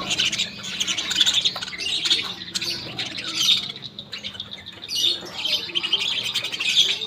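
A flock of budgerigars chattering and squawking continuously, many birds calling over one another.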